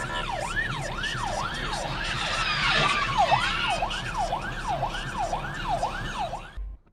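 Emergency vehicle siren in a fast yelp, its pitch sweeping up and down about twice a second over road noise, then cutting off abruptly near the end.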